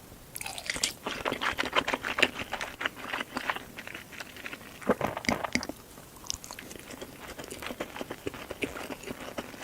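Close-miked chewing and mouth sounds of a person eating: many quick crackly clicks and crunches, busiest in the first few seconds.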